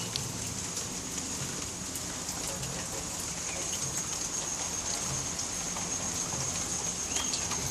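Steady rain falling, with scattered raindrop ticks and a steady high-pitched whine over it.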